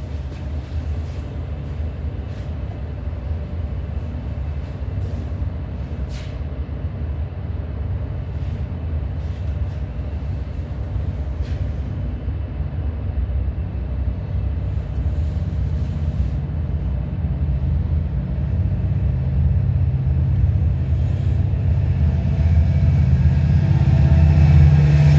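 Diesel locomotives of a freight train approaching: a steady low engine rumble that grows louder toward the end.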